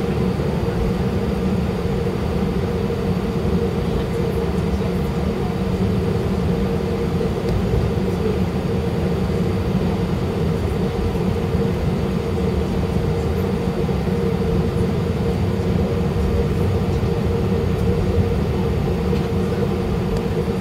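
Steady hum and low rumble of an Airbus A319's jet engines at low ground power, heard inside the cabin, with an even tone that does not change.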